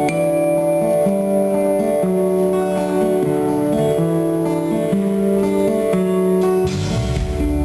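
Live band playing an instrumental intro led by strummed acoustic guitar, its chords changing about once a second, heard through an amateur recording. Near the end the sound fills out with a low thump and a wash of high noise.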